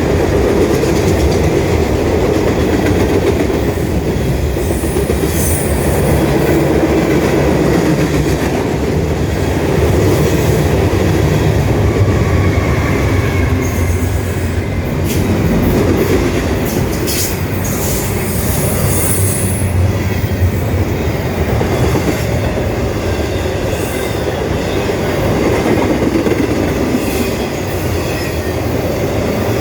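Freight train cars rolling steadily past with a continuous rumble and wheels clacking over the rail joints, with brief high-pitched wheel squeals now and then.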